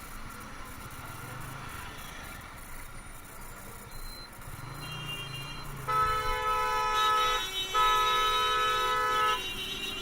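Vehicle horn honking in two long, loud blasts with a short break between them, over steady road and motorcycle engine noise on a busy road. A fainter, shorter horn sounds a little before them.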